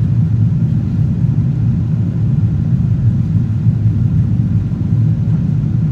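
Steady low rumble of a Boeing 777-200ER's Rolls-Royce Trent engines and airflow, heard from inside the economy cabin.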